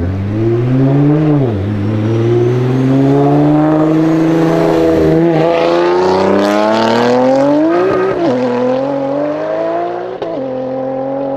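Nissan GT-R R35's twin-turbo V6 accelerating hard, its pitch climbing through the revs and dropping back sharply at each of three upshifts.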